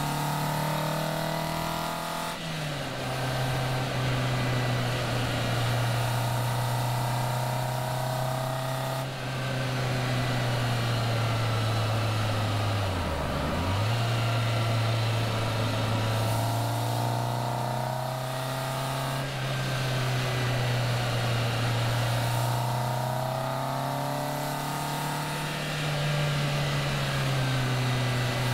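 Caterham Seven's engine running under way at steady revs, with wind and road noise rushing past the open car. The revs drop about 2.5 s in, dip sharply and recover about halfway through, and rise then fall again near the end.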